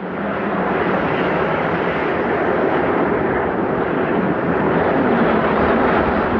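Strong blizzard wind: a loud, steady rushing noise with no distinct tones.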